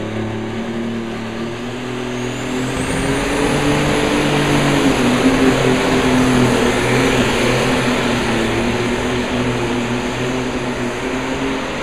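Modified pulling tractor engine running hard under load during a pull, getting louder over the first few seconds. A high whine climbs in pitch about two seconds in and then holds steady.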